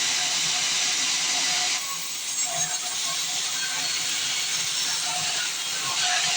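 Steady hissing machine noise of a sawmill, typical of a band saw cutting through timber, dropping slightly in level about two seconds in and rising again near the end.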